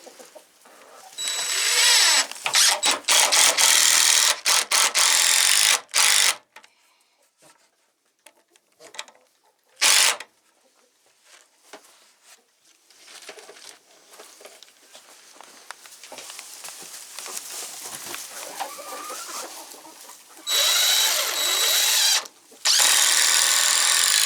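Power drill driving screws into wood in several runs of a few seconds, its motor whining steadily, with chickens clucking in the quieter gaps between.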